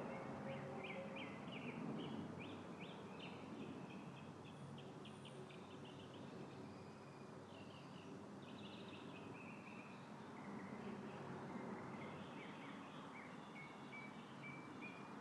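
Light wind rustling a tree's leaves, with small birds chirping repeatedly over it.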